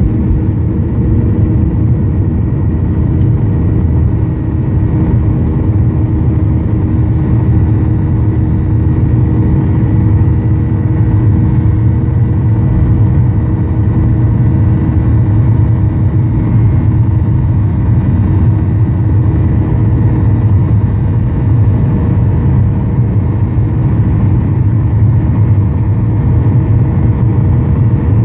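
Steady cabin drone of a Boeing 737-800: its CFM56 jet engines and the airflow, heard inside the passenger cabin as a deep even rumble with a faint steady hum over it.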